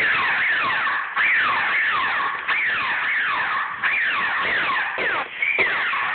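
Laser tag equipment's electronic sound effects: rapid falling zaps, several to a burst, with the bursts repeating about every second and a quarter.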